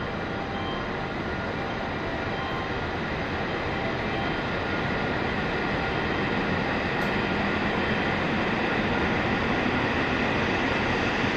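E7 series Shinkansen pulling out of the station and accelerating, its running noise growing steadily louder.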